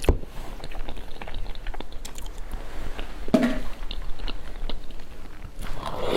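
Close-miked chewing and wet mouth clicks of someone eating, with one louder mouth sound a little past the middle.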